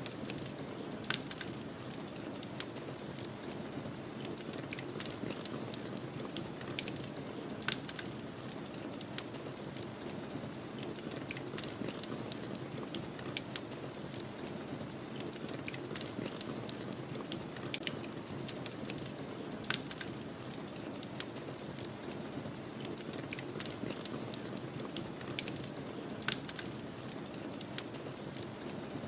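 Wood fire crackling with frequent irregular sharp pops and snaps, over a steady low rush of snowstorm wind.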